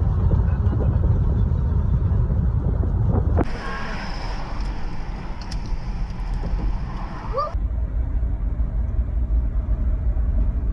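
Car driving: a loud, steady low rumble of road and engine noise, in clips cut together, with a brighter, hissier stretch in the middle.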